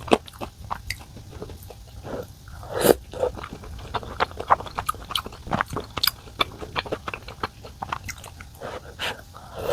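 A person eating close to the microphone: chewing and biting food, with many short sharp mouth clicks and a louder, longer sound about three seconds in.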